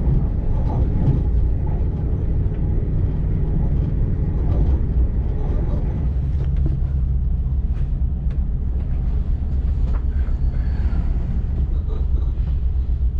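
ÖBB Railjet train running along the track, a steady low rumble of wheels and running gear.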